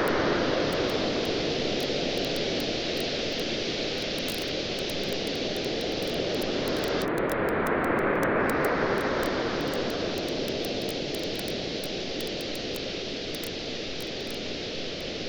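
Surf washing onto a beach in slow swells, one surge at the start and another about eight seconds in, with the light crackling and popping of a wood campfire running through it.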